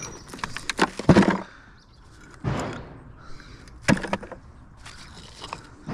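Bricks of an old chimney being knocked loose and handled during teardown: a handful of separate, irregular knocks and clatters, the loudest about a second in.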